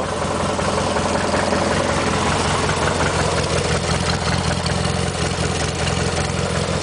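1991 MTD 18-horsepower lawn tractor engine running steadily, a low, even engine note, on two-year-old gas.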